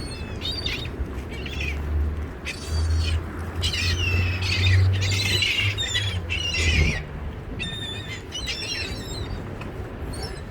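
A flock of gulls calling, many short, squawking calls overlapping one another. A low steady rumble runs underneath from about a second in until about seven seconds in.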